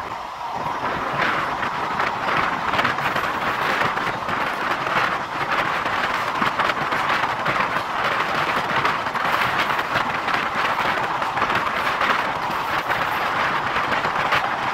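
Passenger train running at speed, heard from outside an open coach window: a steady rush of wheels on rail and passing air, with frequent short clicks and clatter from the wheels.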